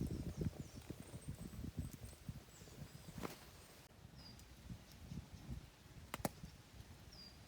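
Faint small handling noises at a campsite meal: soft knocks and rustles, with two sharp clicks about three and six seconds in. A few short high chirps of small birds sound in the background.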